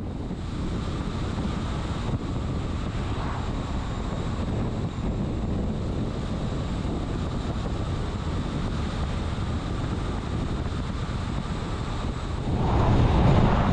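Steady road and wind noise from a vehicle driving at highway speed, with wind buffeting the microphone; it swells louder briefly near the end.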